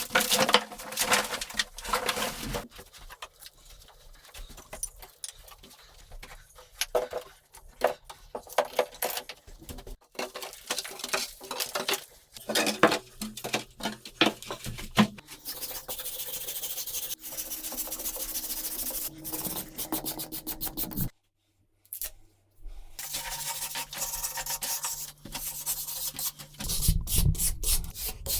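Repeated scraping strokes of a hand tool rubbing against a hard surface, broken by a brief silence about three-quarters of the way through.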